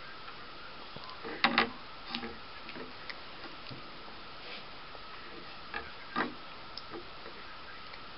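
A toddler's mouth chewing pizza: scattered wet smacks and clicks. The loudest is a quick double smack about a second and a half in, with another about six seconds in.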